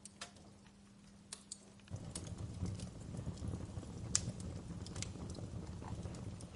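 Wood fire crackling with scattered sharp pops and snaps. About two seconds in, a low rushing of flames comes in suddenly and continues under the pops.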